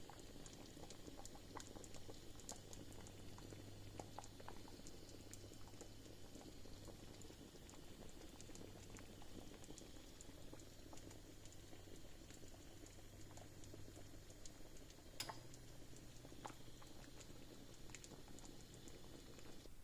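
Pot of chicken soup bubbling faintly, with many small scattered pops over a low steady hum, and one sharp click about fifteen seconds in.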